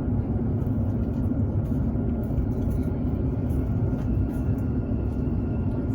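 Steady running rumble of a Hokuriku Shinkansen train, heard from inside the passenger cabin, with a low hum beneath it.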